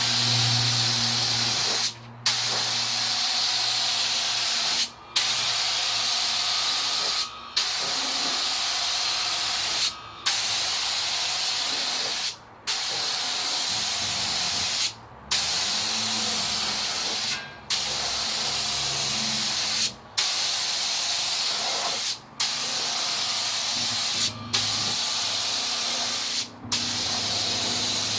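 Compressed-air paint spray gun hissing steadily as white base coat is sprayed on a van, the trigger let off briefly about every two and a half seconds between passes.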